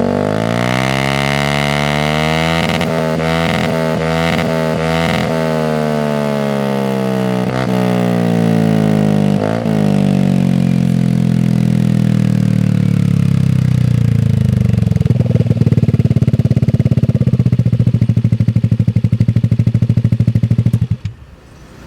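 Yamaha Aerox 155's single-cylinder four-stroke engine through an aftermarket Akrapovic exhaust. Its note falls slowly over about twelve seconds, with a few short throttle blips early on, then settles into a steady, pulsing idle. The engine cuts off about a second before the end.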